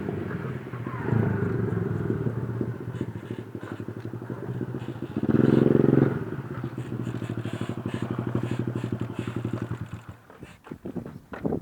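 Honda C90 pit bike's single-cylinder four-stroke engine running through its exhaust at a steady idle. It is blipped briefly about a second in and revved harder around five to six seconds in, then the sound drops away after about ten seconds.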